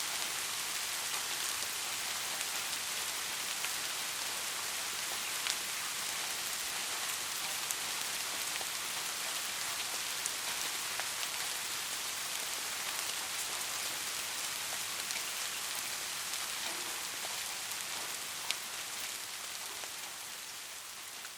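Steady rain falling, an even hiss with scattered individual drops ticking sharply, a couple of them louder.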